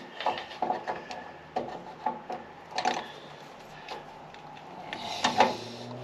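Irregular clicks, clacks and knocks of a hand tool and metal parts being handled and worked, with a short louder cluster about five seconds in.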